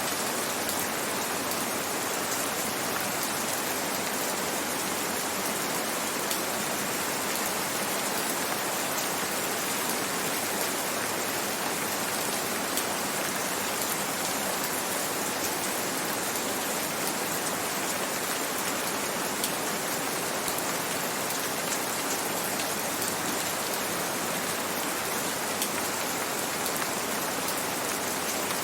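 Gentle rain falling steadily: an even hiss of many drops with faint scattered drop ticks, unchanging throughout.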